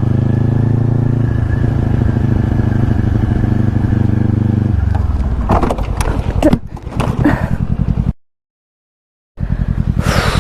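Motorcycle engine running steadily, then from about five seconds in a string of impacts and scraping as the motorcycle hits the car in front of it and goes down. The sound cuts out for about a second, then a low, evenly pulsing engine-like running resumes.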